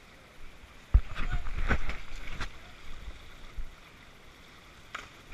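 A sudden heavy thump about a second in, followed by a second or so of knocks and rustling, over a faint wash of river water, with distant voices faintly heard.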